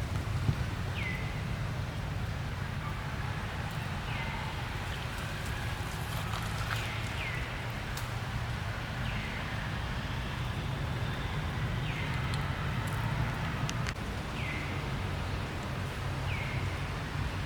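An animal's short high calls, each dropping quickly in pitch, repeated every second or two over a steady low rumble.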